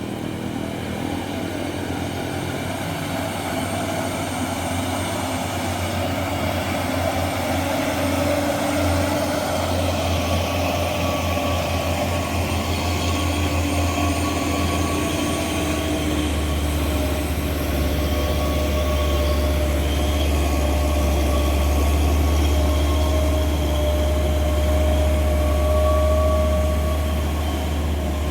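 Heavy diesel truck engine running steadily under load, with a steady whine over the low engine hum; it grows gradually louder over about twenty seconds.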